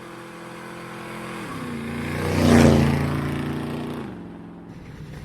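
A motor vehicle driving past at speed. Its engine sound swells to a peak about two and a half seconds in and then fades, and the engine note steps down in pitch twice.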